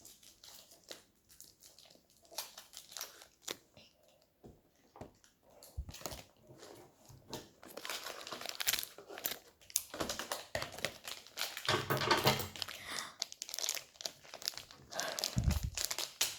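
Plastic toy blind-pack packaging being handled, crinkled and torn open by hand: scattered crackles at first, turning into dense rustling and tearing about halfway through, with a thump near the end.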